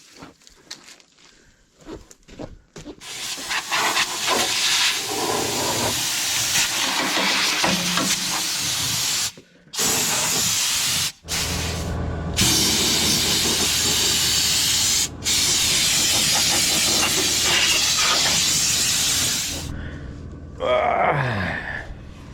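Compressed-air blow gun blowing dust off, long hissing blasts that stop dead and start again three times as the trigger is let go and pressed. A brief falling tone near the end.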